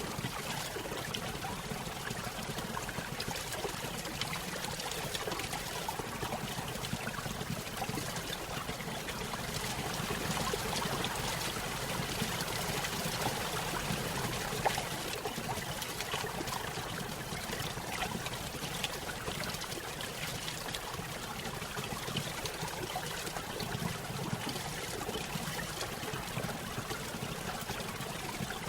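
Small stream spilling over a little waterfall: steady splashing and trickling water, with small bright gurgles throughout.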